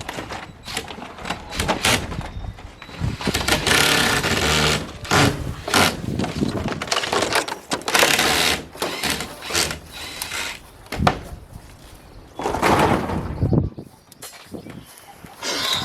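Plastic greenhouse sheeting crinkling and rustling as it is handled and stretched, in irregular loud bursts with small clicks and knocks between them.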